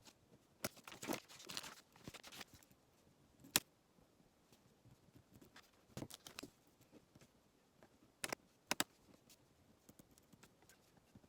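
Light handling noises: scattered single clicks and taps, with a short stretch of rustling about a second in and two sharp clicks close together near the end.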